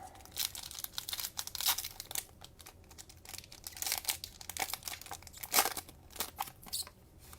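Cellophane wrapper of a trading-card cello pack being torn open and crinkled: an irregular run of sharp crackles.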